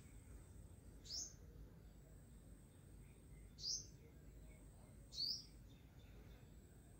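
Three short, high bird chirps, spaced a second or two apart, over a faint steady background with a thin high whine.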